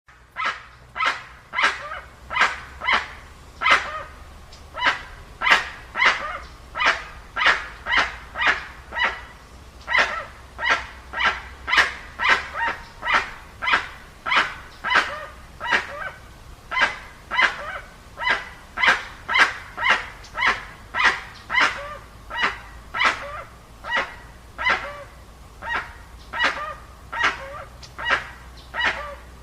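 An animal calling over and over in short, sharp, bark-like notes, about one and a half to two a second, keeping up a steady rhythm.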